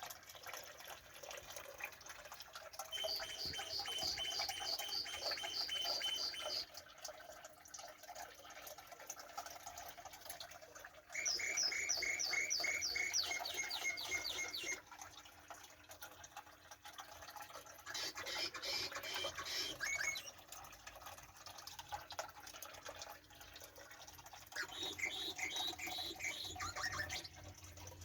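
A songbird singing: four trilled phrases of rapid, evenly repeated high notes, each lasting a few seconds, with pauses of several seconds between them.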